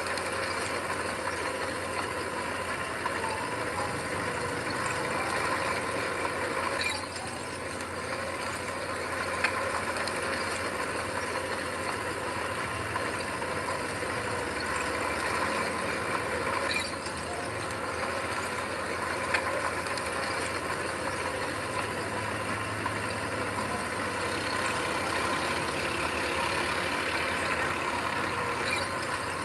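Heavy earthmoving machinery running steadily on a diesel engine, with a few sharp knocks and two brief dips in level.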